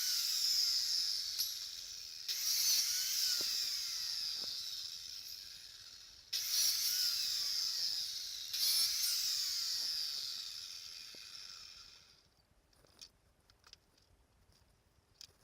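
High-pitched hissing whine of a small power tool. It starts sharply three times and fades a little after each, then stops about twelve seconds in, leaving only a few light clicks.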